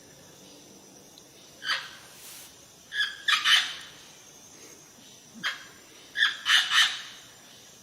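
A bird giving short calls, singly and in quick runs of two or three, the last run near the end.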